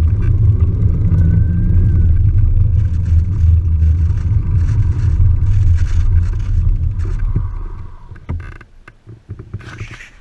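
Loud low rumble of an electric-assist mountain bike being ridden, picked up by an on-board microphone, fading away about eight seconds in, followed by a few faint clicks.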